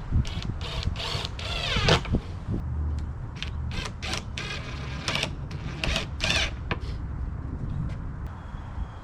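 Wooden ramp boards being shifted and repositioned by hand: a series of knocks and creaking, squeaking scrapes of wood rubbing on wood.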